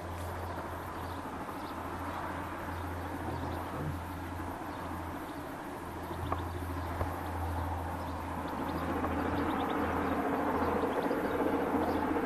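A distant train working up the Opapa Bank grade: a low, steady rumble that grows slowly louder over the last few seconds.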